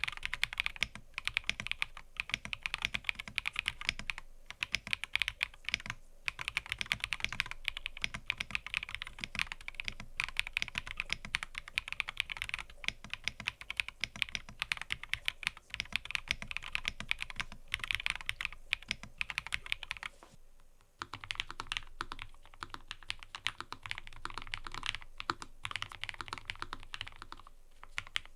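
Fast, continuous typing on a mechanical keyboard: a dense stream of keystroke clicks. It stops briefly about two-thirds of the way through, then starts again.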